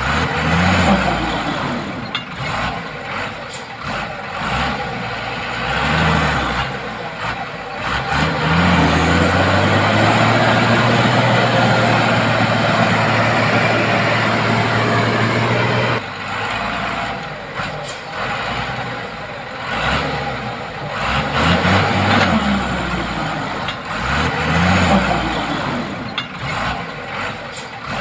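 Heavy diesel truck engine revving up and down again and again. Through the middle it holds high revs steadily for several seconds, a thin whine climbing over it, then cuts off abruptly.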